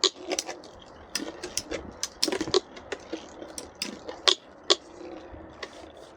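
Two Beyblade spinning tops, Storm Pegasus and Burn Fire Blaze, battling: irregular sharp clicks and clacks as their metal wheels strike each other, the loudest hit about four seconds in.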